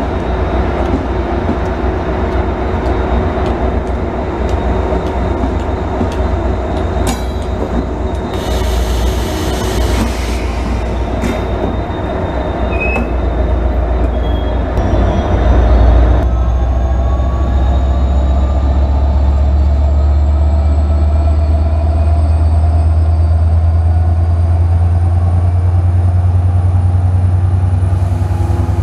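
Israel Railways diesel-hauled double-deck passenger train running past along the platform. The locomotive's deep engine rumble grows louder about halfway through as it comes close, with a short hiss about a third of the way in. Over the second half a whine rises steadily in pitch as the train picks up speed.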